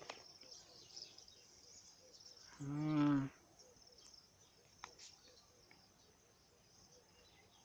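Faint, steady chirring of insects such as crickets in the background. About three seconds in, a man makes one short, hummed vocal sound.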